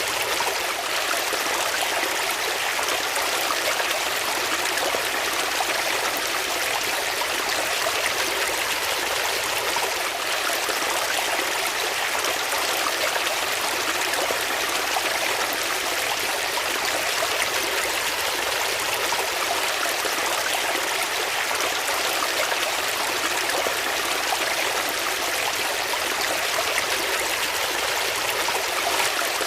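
Water flowing steadily in a stream, a constant rushing and trickling.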